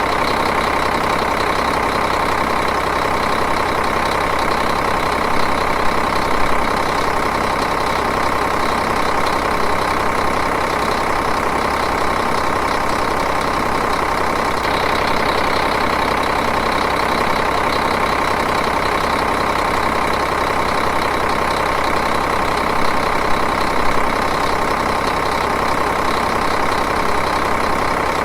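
Diesel engine idling steadily and evenly.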